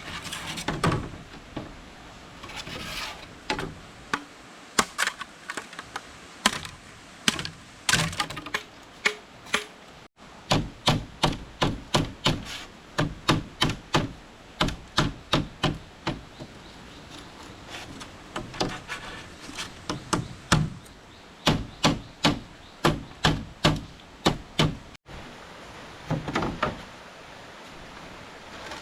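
Repeated sharp knocks of a tool striking bamboo, in quick runs of about two to three blows a second with short pauses between runs.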